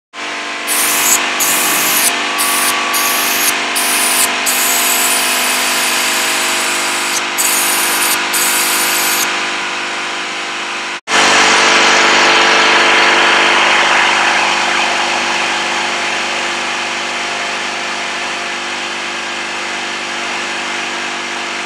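A motor-driven machine running steadily, a hum with a dense hiss over it. The high hiss cuts in and out several times in the first half. About halfway through there is an abrupt break, and then a similar machine sound runs on and slowly fades a little.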